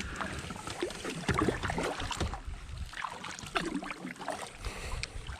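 Irregular water splashes and small knocks over a low wind rumble on the microphone.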